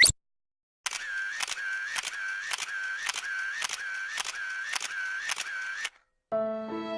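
A sound effect of about ten sharp mechanical clicks, roughly two a second, each followed by a short whirring tone, like a camera shutter firing with its motor winding on. It opens with the last moment of a rising swoosh, and near the end a piece of music with held notes begins.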